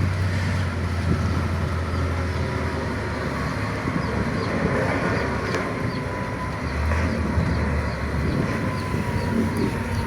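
Heavy diesel engines running with a steady low hum and rumble, with faint regular high chirps in the second half.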